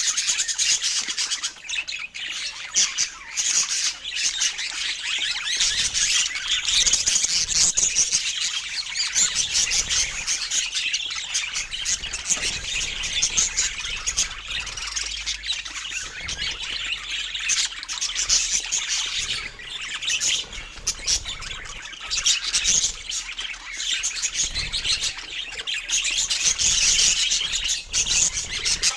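Budgerigars chirping and warbling continuously in rapid, dense chatter, with squawks mixed in.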